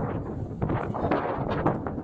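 Strong wind gusting and buffeting the microphone, a dense low rumble with rapid uneven flutters.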